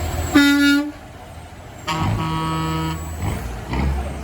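Truck horns honking twice: a short, higher honk, then about a second later a longer, lower honk. Diesel truck engine rumble swells near the end.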